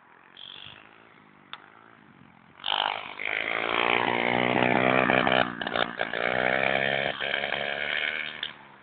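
Pit bike engine running and revving loudly, its pitch rising and falling, for about six seconds starting about two and a half seconds in.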